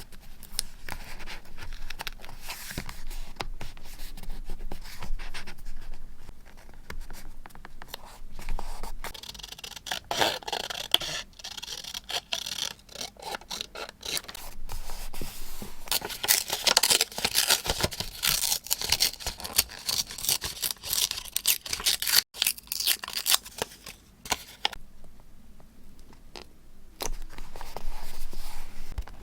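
Paper being handled close to the microphone while scrapbooking: irregular rustling, scraping and crisp snips of scissors cutting paper, busiest in the middle and thinning out near the end.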